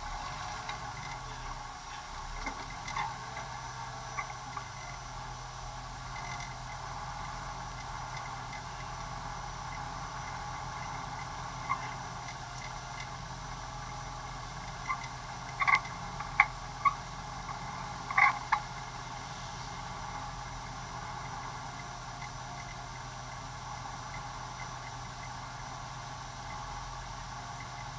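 Car engine idling steadily, heard from inside the stripped cabin, with a few sharp clicks and knocks about halfway through.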